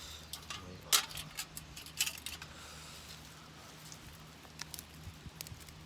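Scattered sharp clicks and taps while trying to light a small twig fire in a compact folding camp stove, the loudest two about one and two seconds in, with lighter ticks near the end.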